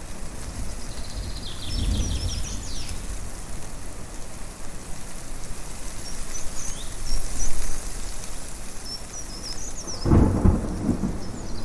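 Thunder rumbling twice: a low rumble about two seconds in and a louder one near the end, over a steady rushing hiss of wind and rain. Birds chirp in short high bursts throughout.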